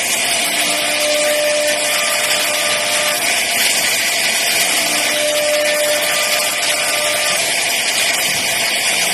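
CNC router spindle carving wood, a steady high hiss of the bit cutting, with a faint pitched tone that comes and goes every few seconds.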